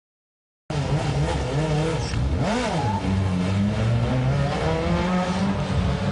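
A carbureted truck engine revs hard. It cuts in abruptly just under a second in, and its pitch swoops up and back down about two seconds in before it settles into a steady high-revving run.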